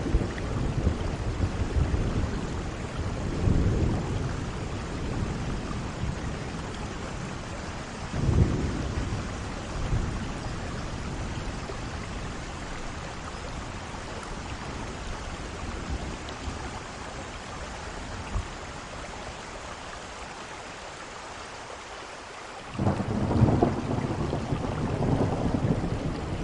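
Steady heavy rain with thunder rumbling. The thunder fades for a while mid-way, then a loud rumble breaks in suddenly near the end.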